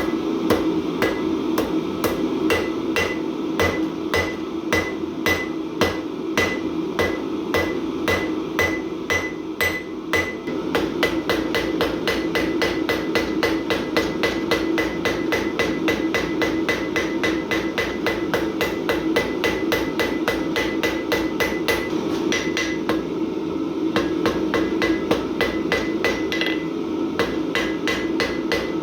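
Forging hammer striking mild steel on an anvil in a long run of steady, evenly spaced blows, each with a short metallic ring. The blows quicken about ten seconds in, from two or three a second to around four a second, over a steady low hum.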